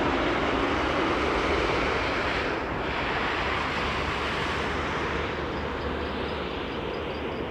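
Jet airliner on its landing approach passing by: a steady roar that slowly fades as it moves away. A faint, rapid high ticking, about five a second, starts past the middle.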